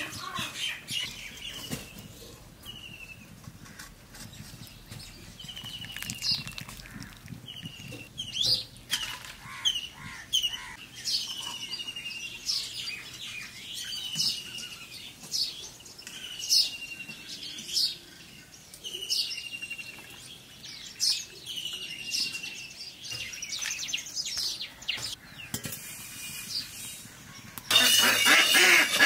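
A bird calling over and over: a short falling whistle about every second or two, with quick sharp rising notes between. Near the end a loud steady hiss of hot oil sizzling in a kadai starts suddenly.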